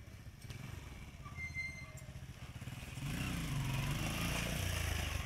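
Bajaj Discover 125 motorcycle's single-cylinder engine idling, then revved about three seconds in, going louder and rising and falling in pitch.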